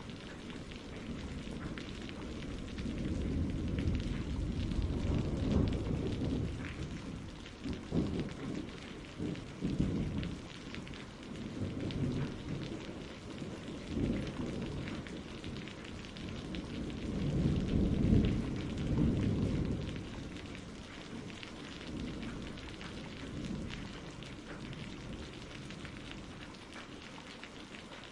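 Thunderstorm: steady rain with rolling thunder, the low rumbles swelling and fading several times, the longest and loudest a little past the middle.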